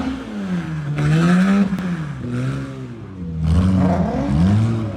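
A car engine being revved in repeated blips of throttle, its pitch rising and falling, with the two strongest revs about a second in and again near the end.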